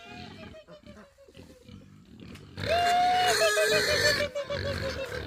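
A farm animal calling, a held note that breaks into a quick run of pulsed, slightly falling notes. A faint call trails off at the start, and a loud call comes about halfway through.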